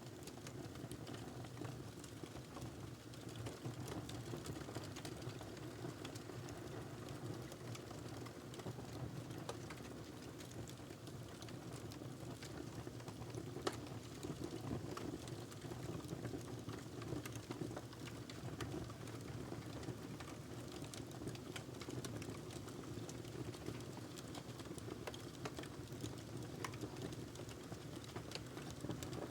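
A log burning in a fireplace, crackling with scattered sharp pops over a steady low rush of flame; one louder pop comes about halfway through.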